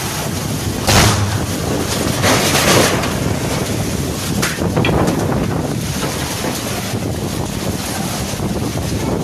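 Storm wind buffeting the microphone as a loud, steady rush, with stronger gusts about a second in and again between two and three seconds.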